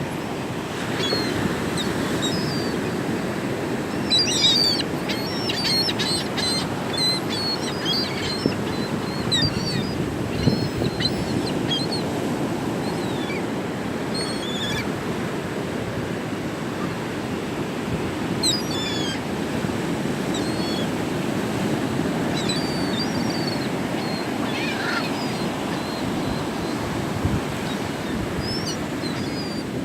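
A flock of seagulls calling, many short high cries overlapping, thickest in the first third and flaring again later, over a steady rush of surf and wind.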